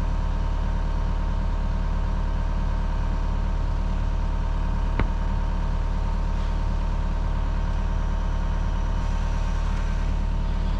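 Diesel engine of a piece of heavy equipment idling steadily, with a single sharp click about five seconds in.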